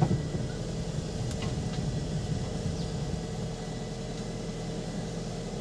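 Ford Focus engine running steadily as the car is driven, a low even hum with faint ticks about a second in. There is no scraping or grinding from the front driveline: the freshly greased CV joint is now quiet.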